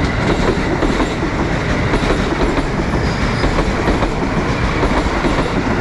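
Electric commuter train moving along the platform close by: a steady loud rumble with wheels clicking over the rail joints.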